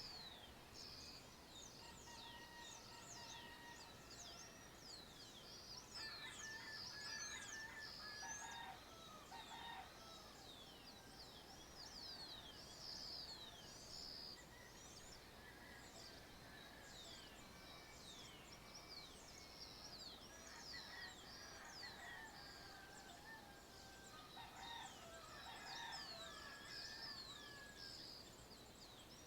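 Faint dawn chorus of many small birds: a steady stream of quick, high, downward chirps. Twice, about six seconds in and again about twenty seconds in, a lower-pitched series of calls from another bird joins in for a few seconds.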